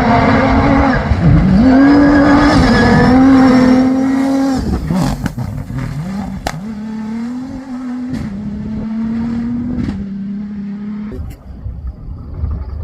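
Rally raid competition vehicle passing at speed, its engine revs climbing and dropping with several gear changes. It is loudest in the first four seconds and fades as it drives away. A few sharp clicks come midway.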